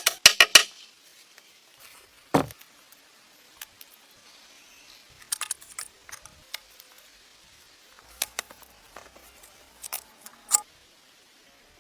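A fast run of sharp clicks, about ten a second, stops half a second in. Scattered knocks and short clusters of clicks follow, with a hard knock about two seconds in and another near the end.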